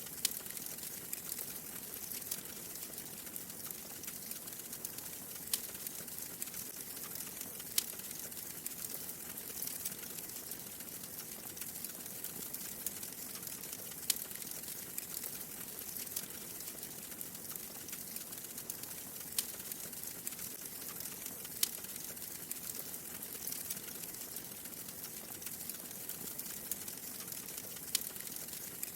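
Wood fire crackling in a fireplace: a steady soft hiss with sharp single pops every few seconds.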